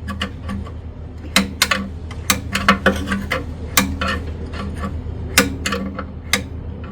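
Irregular sharp metallic clicks and clinks of a pry bar working the flexplate round on an engine hung from a crane, to reach the torque-converter nuts. A steady low hum runs underneath.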